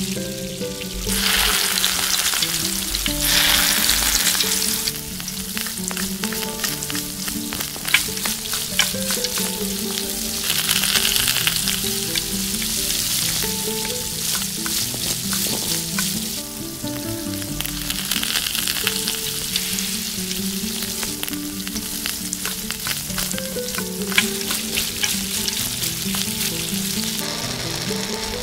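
Butter and vegetables sizzling in a miniature steel kadai, with a spoon stirring and clicking against the pan. The sizzle swells louder a few times.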